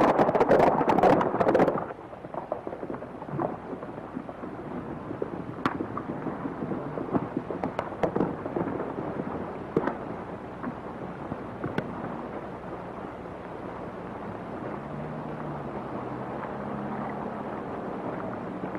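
Horses' hooves galloping, a loud dense clatter for the first couple of seconds, then dropping away to a quiet hiss with only scattered single hoof knocks.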